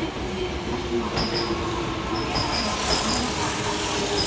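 Kyoto Municipal Subway 10 series electric train running into the station alongside the platform: wheels on the rails, with a steady low hum and short high squeals from the wheels repeating from about a second in.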